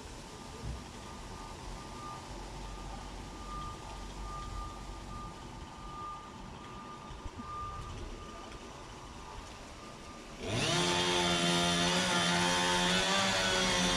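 Faint pulsing vehicle reversing beeper over low background noise. About ten seconds in, a chainsaw cuts in suddenly and runs loud at high revs.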